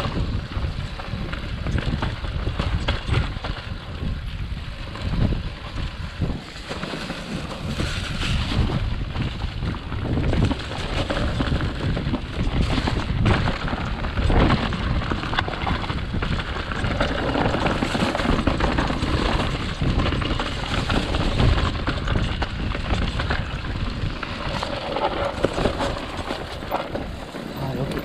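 Mountain bike descending a rough dirt trail: wind buffeting the microphone over the bike's steady rattle, with many sharp knocks as it hits bumps.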